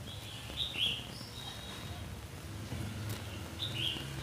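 Small birds chirping: a pair of short falling chirps about half a second in, a thin held whistle right after, and another pair of chirps near the end, over a steady low background rumble.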